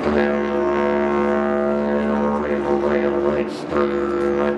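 Didgeridoo playing a steady low drone with shifting overtones, dipping briefly about three and a half seconds in before resuming.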